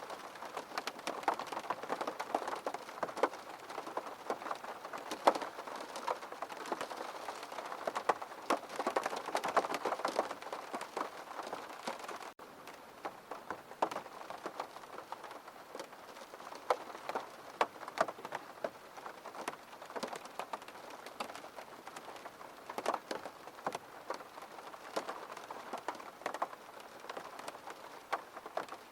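Rain on a window: a steady wash with many separate drops ticking against the glass, a little softer from about twelve seconds in.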